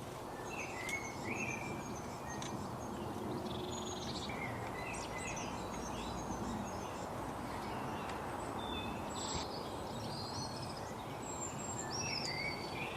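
Several wild birds chirping and trilling in quick, short calls over a steady background hiss of outdoor noise.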